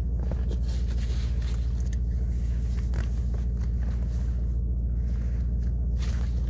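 Mercedes-AMG E63 4MATIC's twin-turbo V8 idling steadily through an iPE exhaust, a constant low hum.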